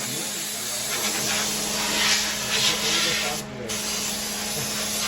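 Compressed air hissing from a workshop blow gun, with a steady low hum underneath. The hiss swells and fades as the blast is aimed, and cuts out briefly about three and a half seconds in before starting again.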